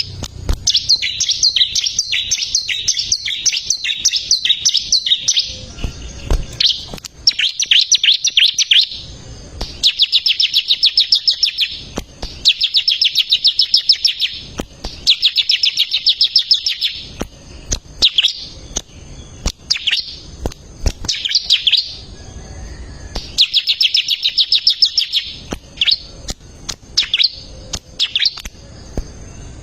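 Ciblek (prinia) singing in repeated bursts of fast, rapid-fire high notes. Each phrase lasts one to three seconds, with short pauses between.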